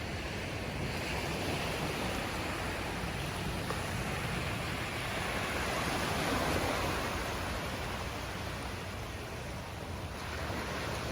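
Storm surf on a beach: waves breaking and washing in as a continuous rush of noise, swelling loudest about six seconds in and easing briefly near the end, with wind rumbling on the microphone.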